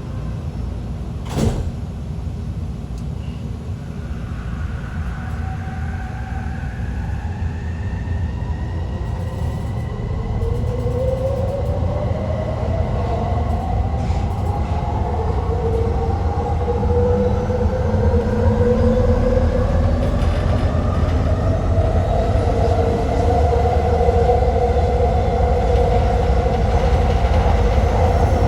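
Elevated electric metro train pulling away and accelerating: the motors' whine climbs steadily in pitch in several tones over a low rumble, growing louder. There is a single short knock about a second and a half in.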